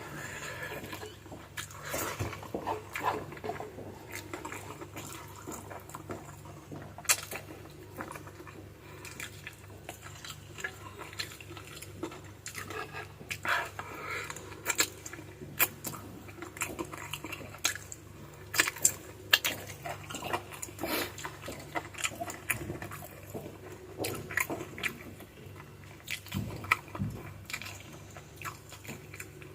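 Close-miked eating of chicken feet adobo: wet chewing, sucking and lip-smacking, with irregular sharp clicks throughout.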